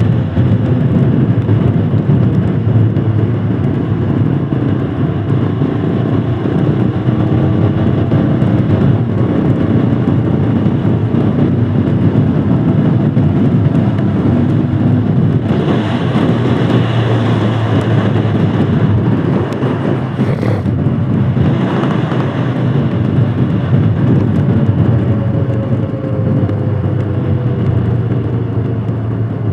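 Royal Enfield Himalayan Scram 411's single-cylinder engine running steadily under way. A louder hiss lasts a few seconds around the middle with a brief click, and the engine pitch falls near the end as it slows.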